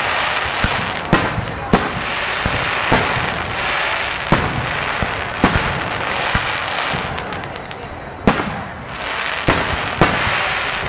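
Aerial firework shells bursting in a fireworks display: about ten sharp bangs at irregular intervals, over a continuous wash of noise between them.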